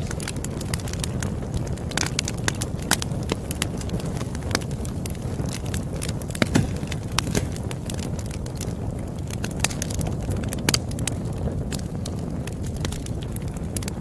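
Campfire burning with a steady low rumble and irregular crackles and pops of burning wood, a few louder snaps among them.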